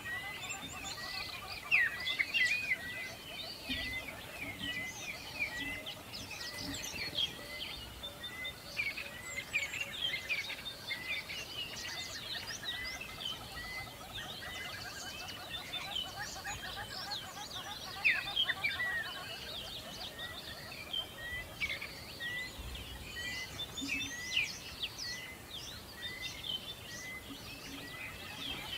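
A chorus of small birds chirping and twittering, with one bird repeating a short note at an even pace of about one a second.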